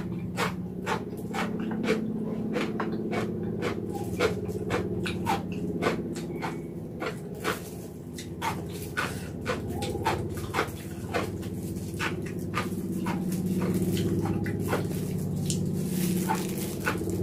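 Close-miked chewing and wet mouth clicks from eating sauced braised mini pork feet, repeating at roughly two a second. A steady low hum runs underneath.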